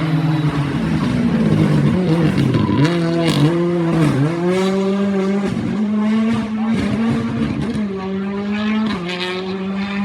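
Rally car engine running hard at high revs through a turn. Its pitch drops and climbs back sharply twice, about three and four seconds in, as it shifts, then holds fairly steady.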